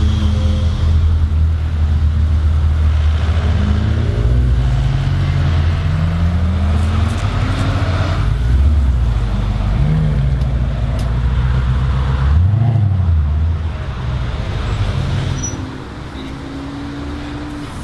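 Mercedes-Benz C63 AMG Black Series's 6.2-litre V8 through a loud custom exhaust. It idles with a deep burble, its note rises slowly for a few seconds, then come two short revs, and it gets quieter a little before the end.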